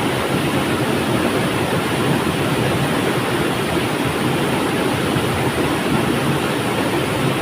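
Flowing river, a steady even rush of water that does not change.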